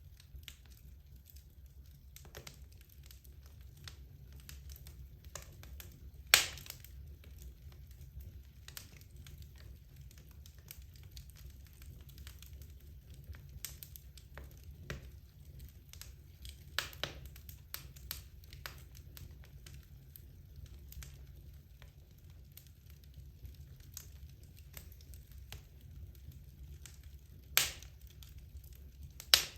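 Wood logs burning in a fireplace, crackling with irregular small snaps and three loud sharp pops, about six seconds in and twice near the end, over a low steady rumble of the fire.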